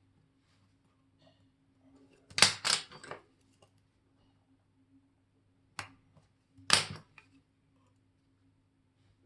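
Small metallic clicks and clatter of watch parts being handled with watchmaker's tools. A quick run of clicks comes about two and a half seconds in and another near seven seconds, with a single click between them, over a faint steady hum.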